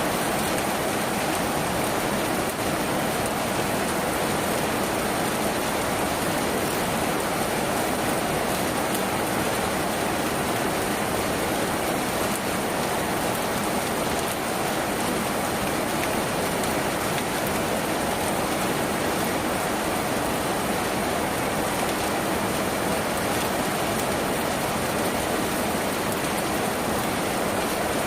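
Steady rain falling on a tin roof, an even hiss that does not let up.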